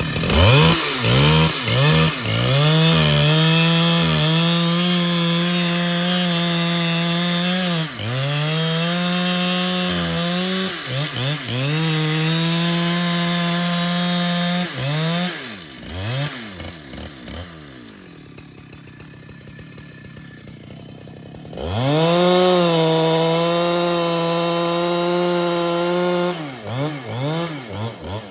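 Husqvarna 395XP two-stroke chainsaw revved up again and again and held at high speed for several seconds at a time while cutting wood, dropping to a quieter idle for a few seconds past the middle before revving up once more.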